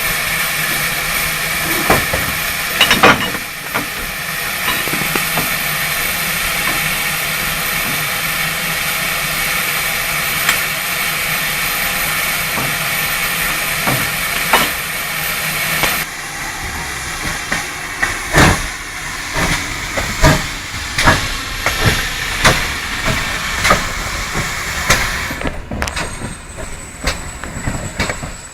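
Steam hissing steadily from the GWR 57xx-class pannier tank locomotive 5786, cutting off suddenly a little over halfway through. A run of irregular metallic clanks and knocks follows.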